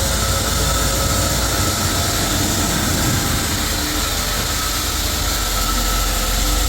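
Sawmill machinery running steadily: a continuous mechanical hum with a faint steady whine and no change in load.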